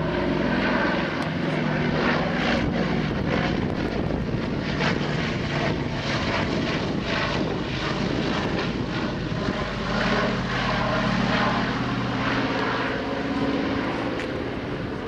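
C-123K Provider's twin Pratt & Whitney R-2800 radial piston engines and propellers droning loudly as the transport flies past; the engine note drops in pitch about ten seconds in.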